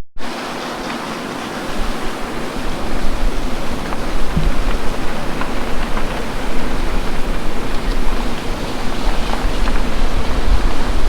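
Strong wind buffeting the microphone: a steady rushing noise with gusty low rumble, quieter for the first two seconds and then picking up.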